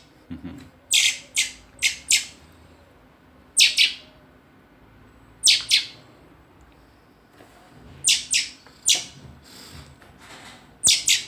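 A very young hand-reared bird chirping: short, sharp, high chirps in twos and threes, each group a second or more apart.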